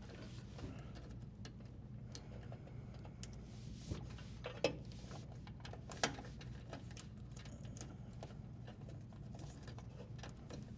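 Quiet handling noises, soft rustling with a few small clicks and taps, as spliced wires with plastic wire nuts are pushed into the dishwasher's metal junction box.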